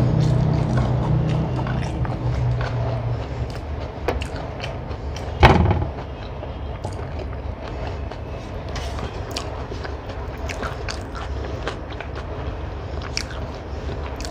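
Close-up eating sounds: chewing and small wet mouth clicks, with fingers picking rice off a metal plate. A low steady hum fades out over the first three seconds or so, and a single sharp knock sounds about five and a half seconds in.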